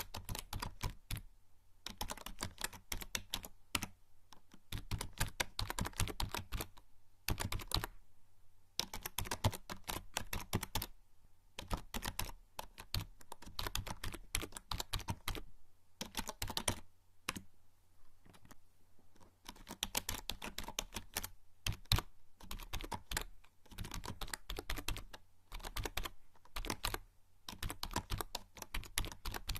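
Typing on a membrane computer keyboard: quick runs of key clicks in bursts of a few seconds, broken by short pauses.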